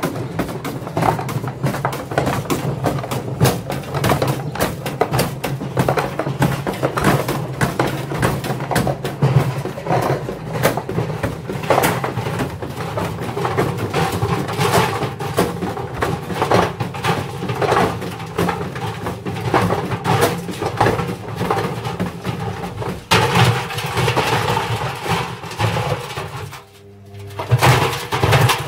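Indesit washing machine running with heavy bricks in its drum: continuous rapid, irregular banging and rattling, with a steady low hum underneath. The banging briefly drops away about 27 seconds in, then returns.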